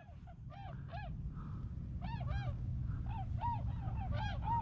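Swans calling: many short, arched bugling notes, several overlapping, about two or three a second.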